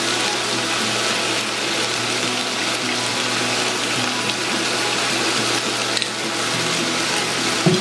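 Diced bell peppers and onions sizzling steadily in a frying pan.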